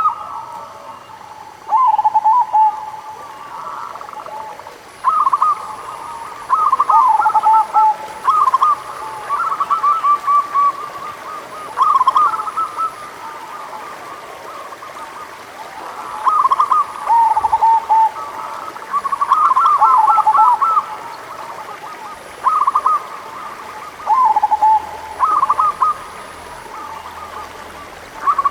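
Zebra doves (local perkutut) cooing: repeated phrases of short rolling notes every one to three seconds, some phrases overlapping at two slightly different pitches.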